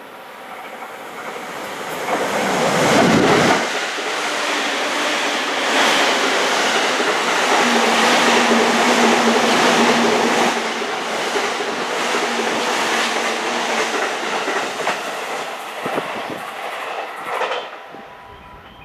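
Electric passenger train passing close by at speed, its wheels clattering over the rail joints. The rush of noise builds in the first few seconds, holds loud for well over ten seconds, then drops away near the end.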